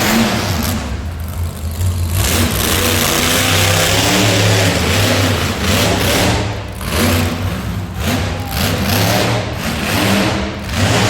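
Monster truck engine running hard and revving, its loudness rising and falling with several brief let-offs.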